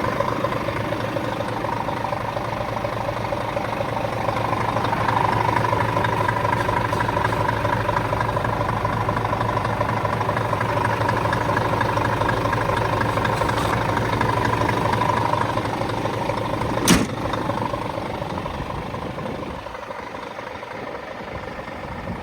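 Scania G410 truck's 13-litre inline-six diesel idling steadily, with one sharp click about 17 seconds in. The engine sound drops lower near the end.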